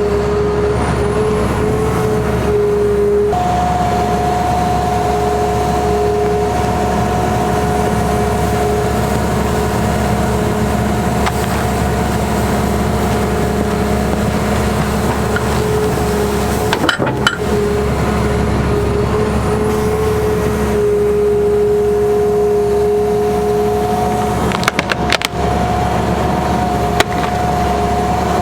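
Caterpillar 336E excavator's diesel engine running steadily under working load, with a hydraulic whine that steps between two pitches as the machine works. A few sharp knocks come past halfway and again near the end.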